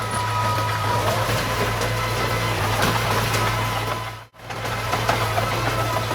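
Diesel engine of heavy earthmoving machinery running steadily, with some light clanking. It cuts out abruptly about four seconds in and comes straight back.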